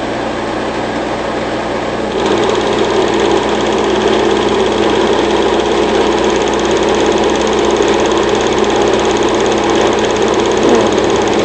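8mm film projector running, a steady mechanical whir and fast, even clatter that gets a little louder about two seconds in.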